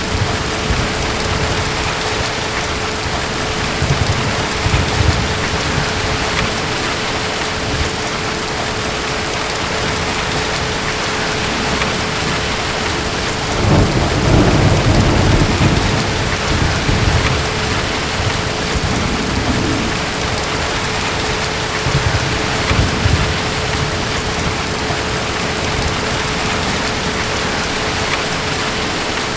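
Steady heavy rain with deep, distant thunder rumbling: a longer, louder rumble about halfway through and weaker ones near the start and about three quarters in.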